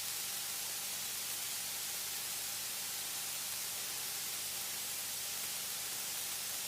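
Steady hiss of the cockpit intercom audio feed, with a faint, even low hum beneath it from the Cessna's engine while taxiing.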